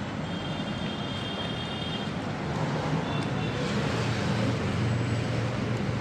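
Road traffic noise: a steady rumble of vehicles, with an engine growing louder about halfway through.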